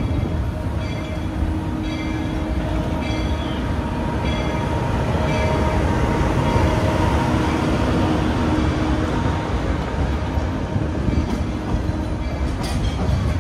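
A narrow-gauge train rolling along at speed, heard from an open car: a steady rumble and clatter of the wheels on the rails. Through the first five seconds a short high ringing note repeats about once a second.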